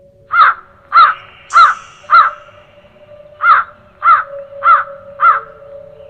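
A crow cawing: two runs of four harsh caws, about two a second, with a short pause between the runs. A faint steady tone hums underneath, and a second, lower tone joins it near the end.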